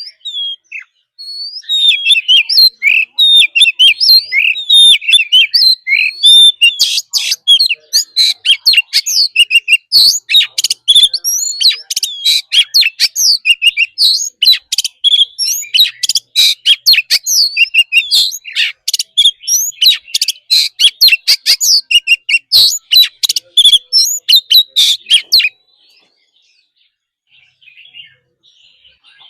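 Oriental magpie-robin singing a long, rapid run of varied whistles mixed with sharp clicking notes, in the wild-type song used to stir other birds to sing; it stops abruptly near the end.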